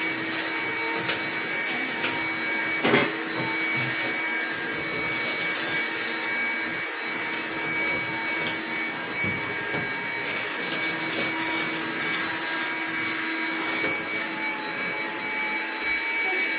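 A steady electric motor running with a high whine over a hiss, unchanging throughout; a short sharp knock about three seconds in.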